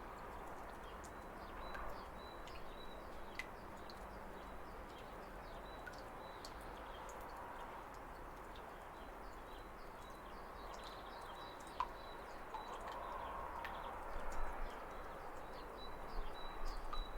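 Steady rush of falling water from a waterfall, with birds chirping over it in short high calls scattered throughout and a thin high note that comes and goes. The water's sound turns louder and more uneven near the end.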